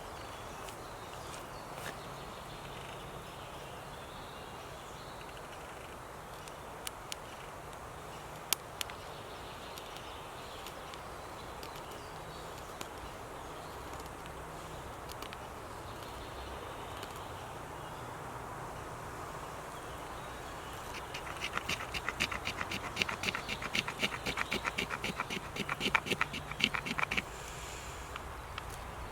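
Woodland ambience: a steady outdoor hush with a few scattered clicks, then a run of rapid, sharp clicking for about six seconds near the end.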